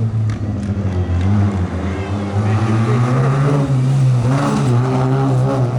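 Rally car engine running at high revs, its pitch rising and dipping repeatedly as it accelerates and lifts.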